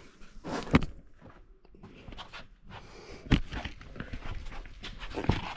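Shoes scuffing and knocking on sandstone as a person scrambles up a rock ledge, with a few sharper knocks of feet or hands on the rock and a short grunt-like breath near the start.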